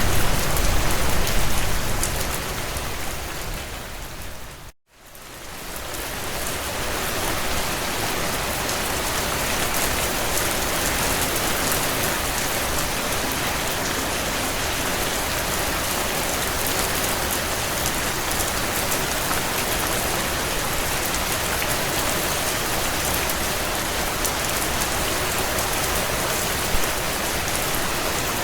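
Steady heavy rain on a window, an even hiss of drops. About five seconds in it fades out to a moment of silence and fades back in, then holds steady, with a single sharp click near the end.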